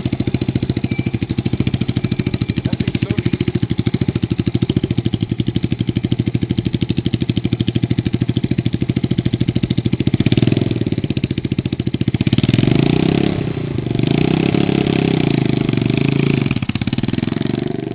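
Kikker mini bike's small engine running under way with rapid, even firing pulses. About ten seconds in it gets louder and its pitch rises and falls as the throttle is opened and eased.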